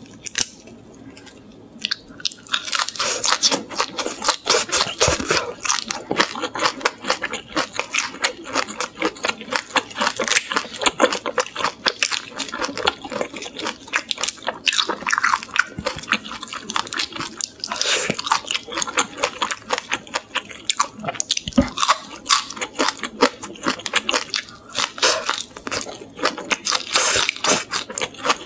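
Close-up crunching and chewing of crispy butter-fried shrimp heads, the shells crackling in quick irregular bites. It starts about two seconds in and keeps up.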